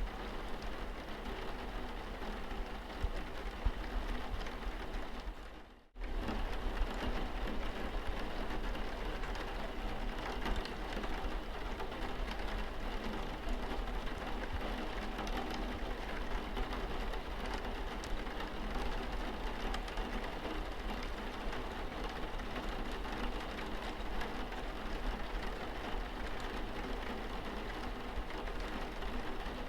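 Steady rain pattering on a car's windscreen, dense drops over a low steady hum. About six seconds in it fades out for a moment and comes straight back.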